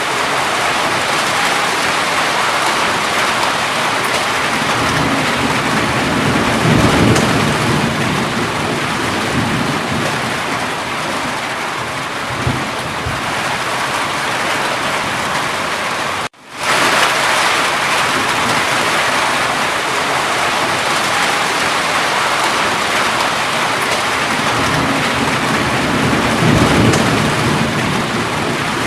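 Steady heavy rain with low rolls of thunder swelling twice, about a quarter of the way in and again near the end. Halfway through the sound cuts out for a split second and comes straight back.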